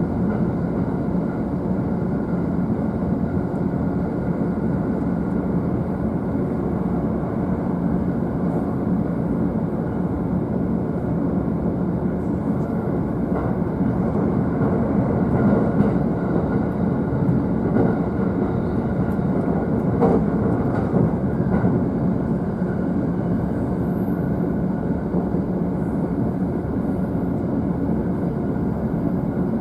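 Running noise inside an E531-series electric train, heard from the upper deck of a double-decker car: a steady rumble of wheels on rail at speed. A few faint rail-joint knocks come through around the middle.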